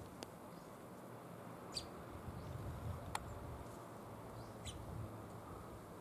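A few short, high bird chirps, spaced a second or more apart, over a faint low rumble.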